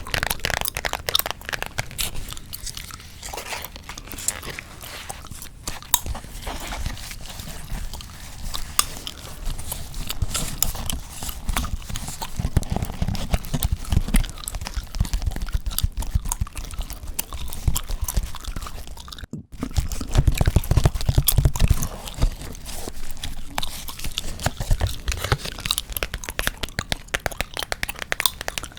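Close-miked gum chewing: dense wet clicks and crackles, with stretches of low, muffled thuds. The sound cuts out for an instant about 19 seconds in.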